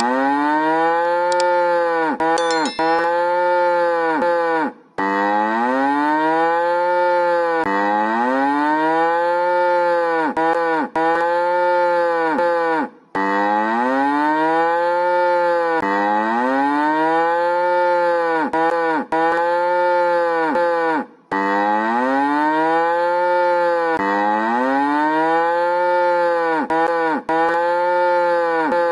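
A cow mooing over and over: about a dozen long moos, one after another, each rising and then falling in pitch.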